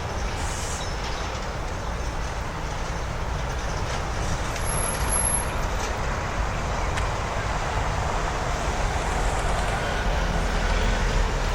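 Steady city street traffic noise, with motor vehicles running and passing close by, growing a little louder near the end.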